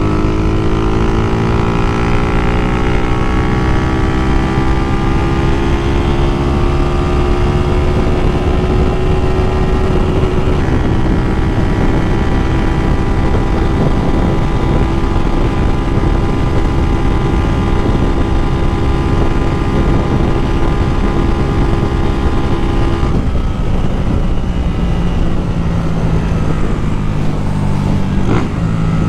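Honda Titan 2000 motorcycle's single-cylinder 240cc engine under hard throttle, its pitch rising steadily for about the first ten seconds as it pulls through a gear. It then holds at high revs and drops to a lower steady note about 23 seconds in.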